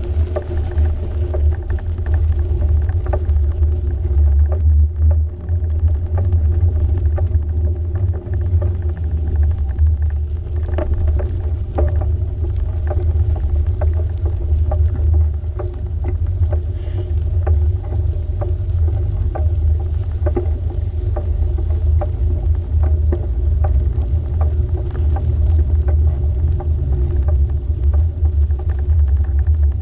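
Steady low rumble of a bike in motion, with wind buffeting the microphone and tyre noise from the trail, and scattered small clicks and rattles throughout.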